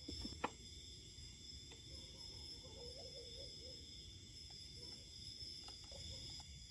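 Faint, steady high-pitched insect chirring, with one sharp click about half a second in and a few soft ticks later.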